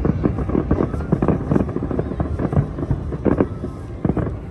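Fireworks show: a rapid, irregular string of booms and crackling bursts, dense and overlapping, easing off slightly near the end.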